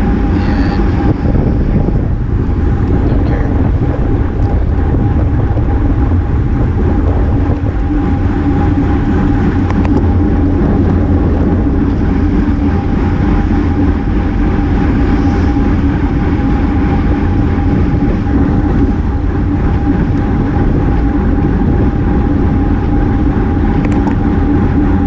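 Steady wind and road rush on the microphone of a bicycle racer's GoPro while riding at speed, with a constant hum running underneath.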